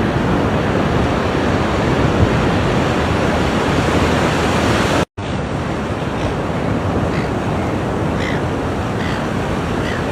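Ocean surf: a steady rush of waves washing on the shore. About five seconds in, the sound drops out for a split second at a cut, then the surf carries on.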